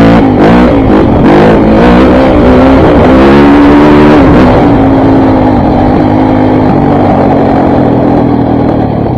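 Single-cylinder four-stroke engine of a KTM 400 MXC dirt bike revving under hard throttle, its pitch rising and falling for the first few seconds, then holding a steadier note that eases off near the end.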